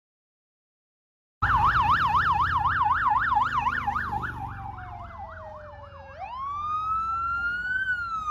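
Dead silence for over a second, then an emergency vehicle's electronic siren cuts in abruptly with a fast yelp. The yelp slows, drops into a low tone, then changes to a wail that rises and then slowly falls, over a low engine rumble.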